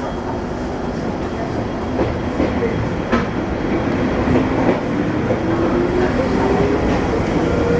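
Izuhakone Railway Sunzu Line electric train heard from inside the car, running with a steady rumble and a few clicks of wheels over rail joints. From about halfway through, a motor whine rises steadily in pitch as the train gathers speed.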